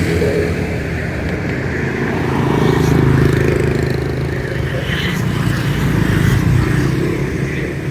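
Motorcycle engine running while under way, a steady note that swells a little about three seconds in and again near six seconds.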